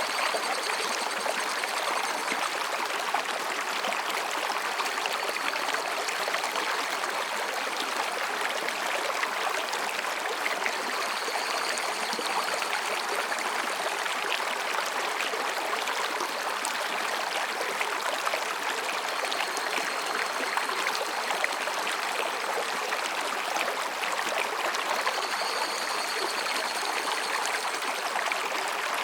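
Mountain stream flowing between rocks, a steady, even splashing rush of water. Faint high-pitched calls of higurashi cicadas come and go several times over it.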